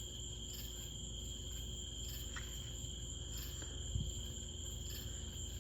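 Night insects, crickets among them, trilling steadily with regular high pulsing chirps over a low rumble. A soft low thump comes about four seconds in.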